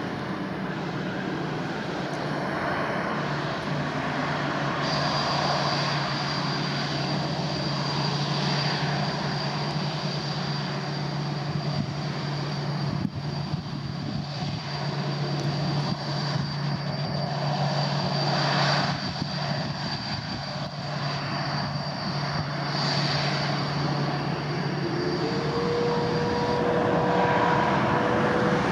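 Boeing 787-9 jet engines running with a steady noise, a low hum and a high whine. Near the end a higher tone rises in pitch.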